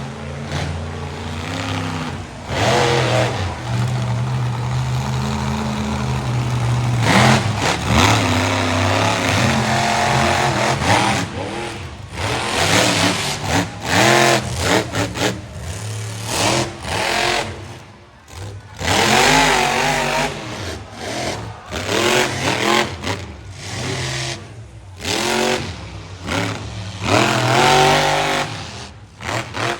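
Monster truck engine running steadily for several seconds, then revved hard in repeated bursts that rise and fall in pitch, with short drops between them.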